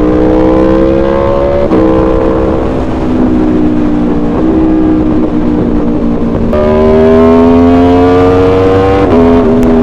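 Aprilia Tuono V4's 65-degree V4 engine pulling under throttle, its note climbing and changing through gears. The pitch drops sharply about two seconds in, rises again over the middle, and falls near the end.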